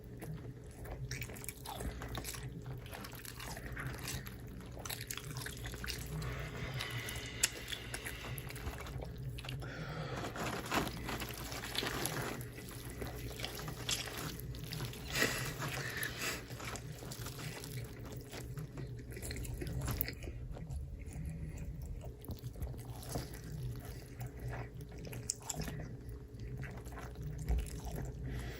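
Close-up wet eating sounds, mostly chewing and biting with small crackles and clicks, over a steady low hum.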